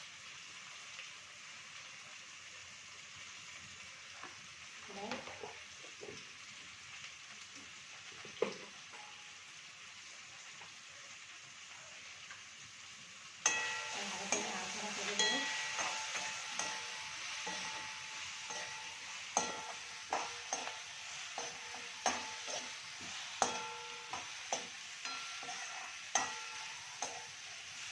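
Onions and ground spices frying in a pan with a steady sizzle, stirred with a spatula that scrapes and knocks against the pan. About halfway through the sizzle jumps suddenly louder, and the knocks of stirring come more often after that.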